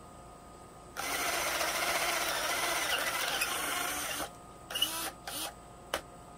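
Electric drill boring a hole through pine with a worn-out bit, running for about three seconds. Two short bursts follow, then a single click.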